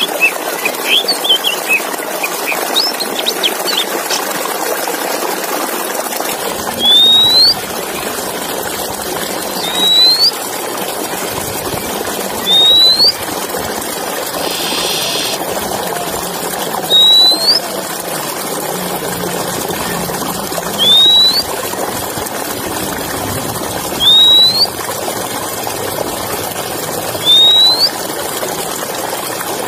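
Oriental magpie-robin song played as a training recording: a flurry of quick chirps in the first few seconds, then a single short rising whistle repeated about every three and a half seconds, with one buzzy note about halfway. The whistles sit over a steady rushing background noise.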